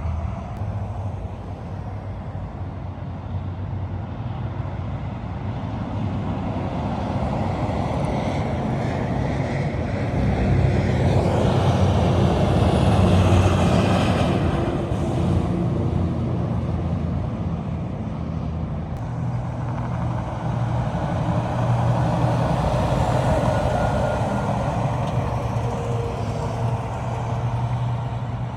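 Heavy trucks passing on the road: diesel engines running with tyre and road noise that swells as a truck goes by, loudest about halfway through and again near the end.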